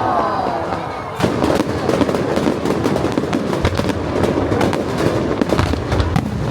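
Fireworks display: a few falling whistles trail off, then about a second in a loud bang sets off dense, rapid crackling and popping that goes on.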